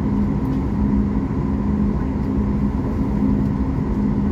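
Steady cabin noise inside a Boeing 737 MAX 8-200 airliner before takeoff: a constant low hum from the engines and air conditioning, with no change in pitch.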